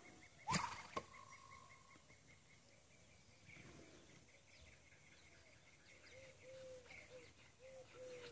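Faint outdoor ambience with birds calling: a fast, even run of high chirps in the first few seconds, then a series of short, lower arching notes near the end. Two sharp knocks come about half a second and one second in.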